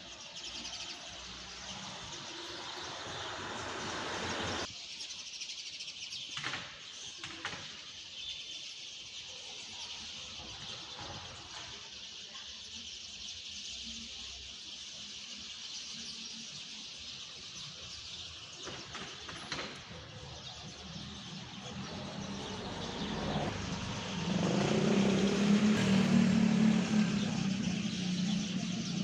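Small birds chirping and twittering. In the last several seconds a car's low engine sound builds up and becomes the loudest sound.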